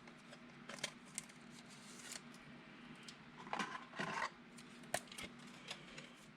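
Trading cards being handled: faint clicks and light rustles of card stock and plastic sleeves, with a longer rustle about three and a half seconds in.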